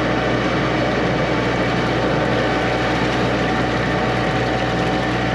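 High-pressure drain jetter's engine running steadily at a constant pitch.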